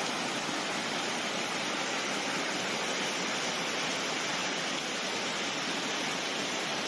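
Floodwater rushing through a street, a steady, even rush of water.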